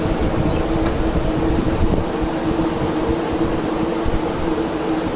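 CAF electric multiple-unit train running with a steady two-note hum over a low, uneven rumble.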